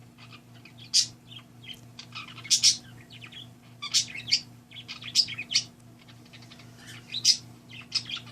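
A pet parakeet singing: short, high chirps and warbling chatter in clusters every second or two.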